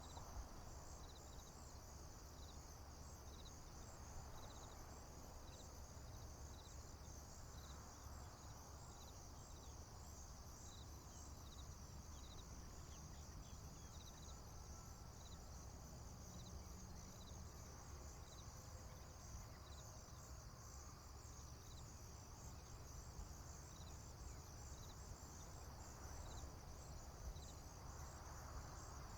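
Faint, steady chorus of crickets and other insects: a continuous high trill, with short chirps repeating about once a second, over a low steady rumble.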